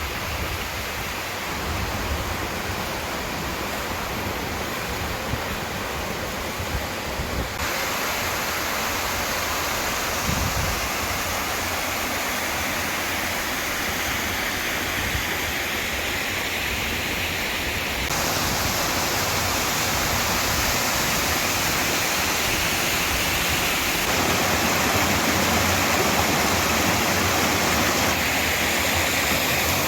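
Small waterfall pouring: a steady rushing of falling water, whose tone and loudness shift abruptly a few times, stepping up in the upper range at about 8 and 18 seconds in.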